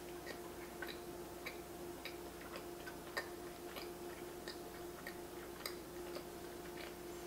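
Closed-mouth chewing of a soft cake donut: faint, moist mouth clicks at a fairly even pace of about two a second, over a faint steady hum.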